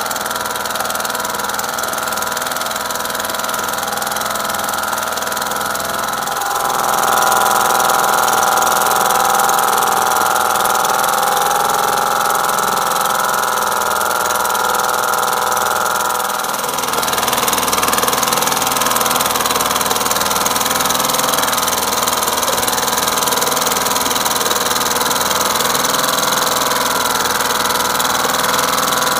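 Restored 1978 British Seagull Featherweight 1.5 hp two-stroke outboard motor running steadily. Its note steps up and gets louder about a quarter of the way in, and shifts again a little past halfway.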